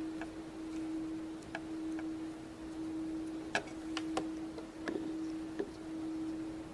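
Scattered light clicks and taps of plastic Play-Doh tools and molds being handled, about nine in all, the strongest a little past the middle, over a steady hum.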